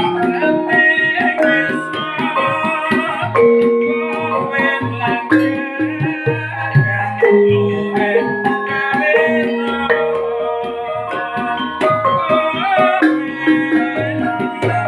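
Javanese gamelan ensemble playing in rehearsal: metallophones ring held notes that step from pitch to pitch over steady drum strokes.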